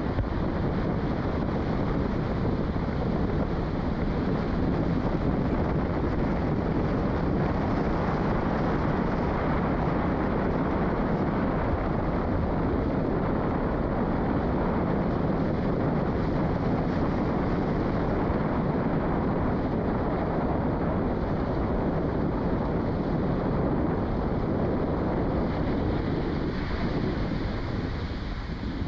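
Strong wind buffeting the microphone as a steady, heavy rumble.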